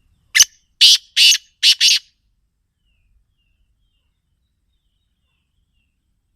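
Black francolin (kala teetar) calling: a single call of five short, harsh notes over about a second and a half, the last two run close together.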